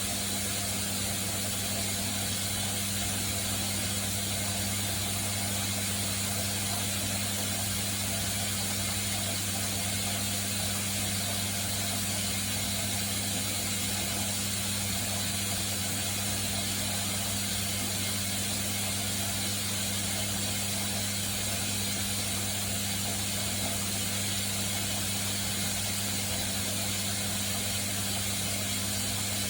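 Haier HW90-BP14636 front-loading washing machine, with an inverter motor and belt drive, spinning at a steady speed: a constant whirring with a low hum underneath that does not rise or fall.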